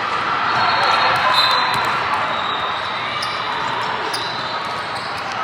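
Basketball game sounds in a gym: a ball bouncing on the court over steady crowd chatter, with scattered sharp knocks and short high squeaks.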